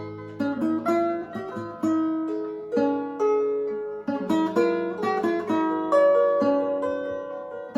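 Lyre and guitar playing an unhurried melody together, each plucked note ringing and then fading.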